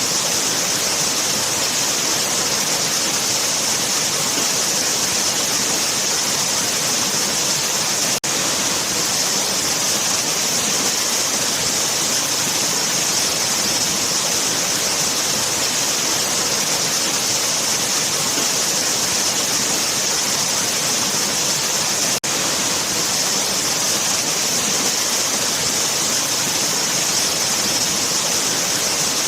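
Waterfall: a steady, full rush of falling water, with two split-second dropouts about 8 and 22 seconds in.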